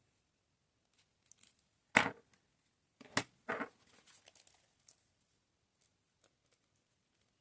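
Close-up diamond painting handling sounds: a few sharp crinkly snaps of plastic and resin pieces, the loudest about two seconds in and two more about a second later, with scattered light ticks in between.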